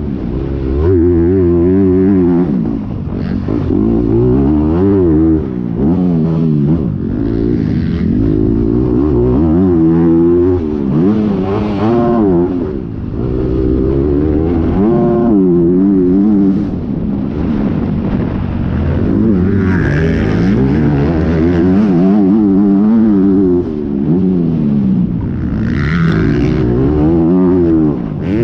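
Honda 250 four-stroke motocross bike engine, heard onboard, revving hard and backing off over and over as the rider works the throttle and shifts through the gears around a dirt track; the pitch climbs and drops every second or two.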